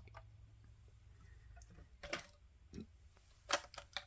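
Plastic Lego train parts clicking and clacking as the model is handled: one click about two seconds in, then a quick cluster of clicks near the end, over a faint steady hum.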